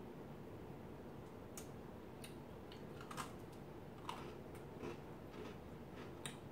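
Faint crunching of a chocolate cupcake-filled Oreo being chewed: a handful of short, sharp crunches scattered irregularly, the loudest about three and four seconds in.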